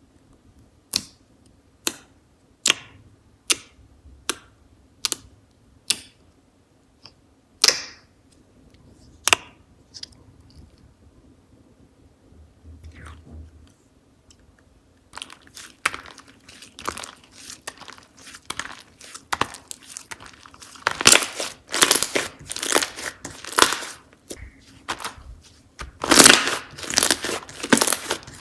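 Slime being handled by hand: first a run of sharp clicks about once a second, then from about halfway a dense, crackly squishing and crunching that grows louder in bursts.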